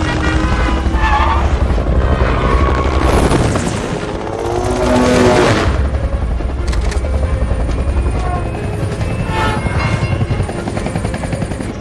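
Helicopter rotor and engine noise in a film action soundtrack, mixed with the score. It swells to a peak about five seconds in.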